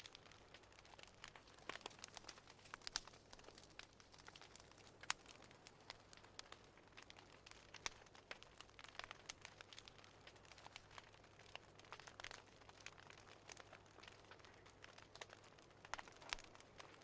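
Faint crackling wood fire: irregular sharp pops and snaps, a few louder than the rest, over a low steady hum.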